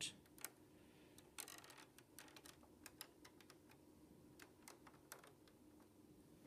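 Faint, scattered clicks of LEGO plastic parts being handled, with a brief rattle about one and a half seconds in, as the wing flaps are slid out along their tracks.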